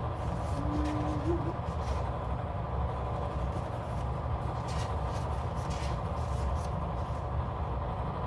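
A steady low background rumble with a few faint rustles and light clicks of paper or sticker sheets being handled.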